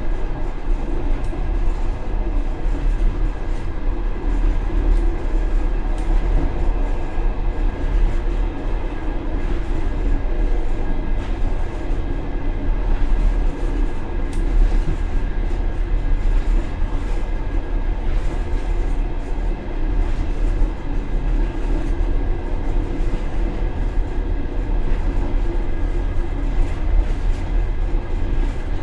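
Steady rumble of a passenger coach in motion, heard from its rear vestibule, with wheels running over the rails and scattered light clicks.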